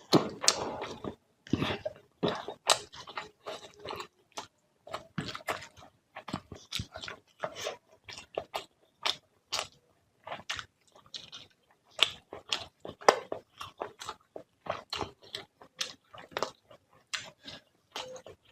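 Close-up sounds of a person eating fish curry with rice: chewing with many short, sharp mouth smacks and crunches, several a second and irregular.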